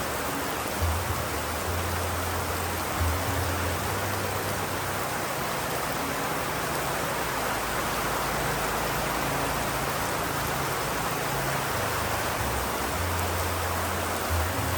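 Steady rain, an even hiss with no break, with low tones coming and going underneath it and a couple of soft thuds.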